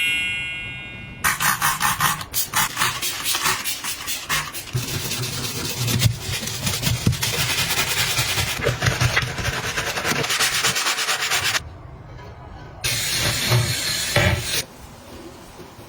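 Fast back-and-forth scrubbing of a surface during cleaning. It runs for about ten seconds, pauses briefly, then goes on for another second and a half.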